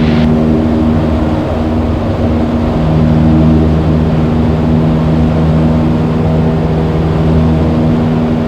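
Cessna 172's piston engine and propeller at climb power just after takeoff: a steady drone with several held tones, one of them growing stronger about three seconds in.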